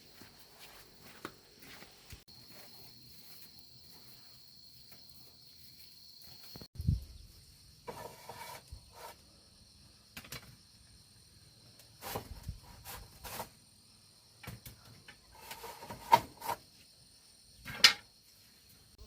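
Steady high insect chirring, with scattered knocks and clatters from things being handled.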